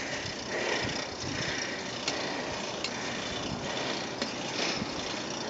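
Steady rushing wind and road noise from riding a bicycle.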